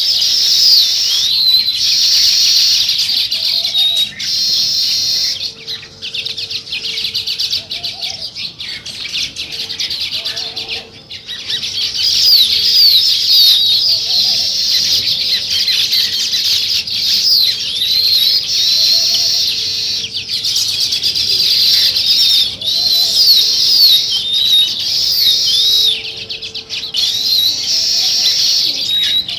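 A flock of house sparrows chirping together in a dense, continuous chatter of short overlapping chirps. A fainter, lower call repeats every couple of seconds underneath.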